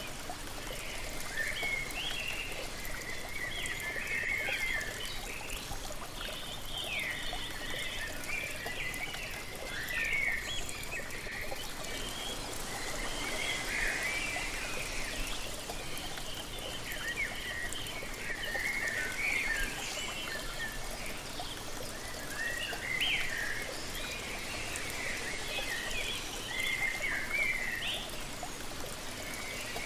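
Waterfall rushing steadily, with many birds chirping and calling in short, overlapping bursts throughout.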